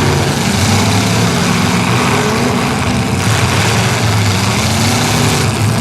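Several demolition derby cars' engines running loud together, their pitches wavering up and down as they rev.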